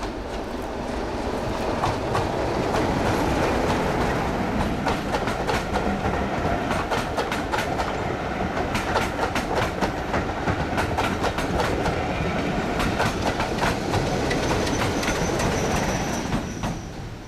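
Train passing close by, its wheels clicking rhythmically over the rail joints. It builds over the first couple of seconds, and a thin high squeal from the wheels sets in near the end as it falls away.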